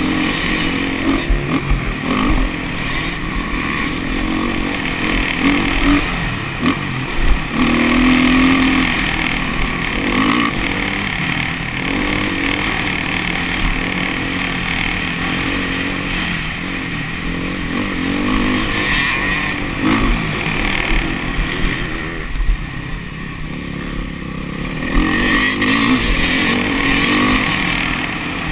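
Motocross bike engine running hard and revving up and down repeatedly, with a few sharp knocks along the way.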